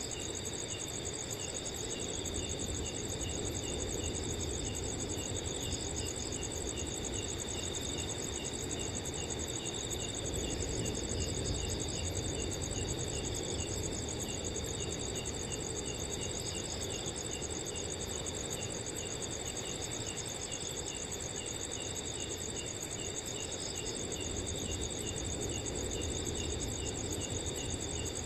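Several crickets chirping steadily, a continuous high trill with a quick run of short chirps beneath it, over a soft low rush of wind that swells gently and eases.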